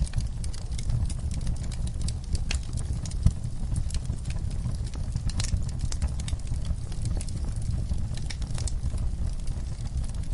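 Wood campfire crackling: irregular sharp pops and snaps of burning wood over a low steady rumble of the flames.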